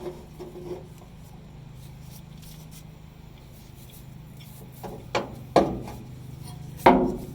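Sharp taps on the fuel pump assembly: two about five seconds in and a louder one near the end, over a steady low hum. These are the taps that work the part around through its groove as it is seated.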